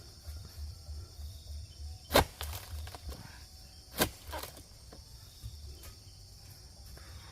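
Two sharp knocks from oil palm harvesting, about two seconds apart, the first much the louder, over a low uneven rumble.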